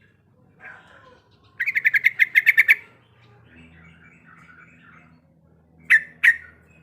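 Yellow-vented bulbul (trucuk) singing: a rapid trill of about a dozen notes lasting about a second, then soft chattering, then two loud sharp notes near the end.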